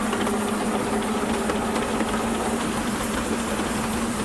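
7¼ inch gauge miniature steam locomotive Tinkerbell running with its train through a tunnel, heard from the footplate: a steady hum under a continuous rattle and hiss.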